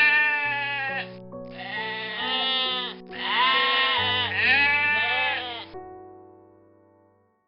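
Three long, quavering animal cries over background music with sustained notes. The music fades out near the end.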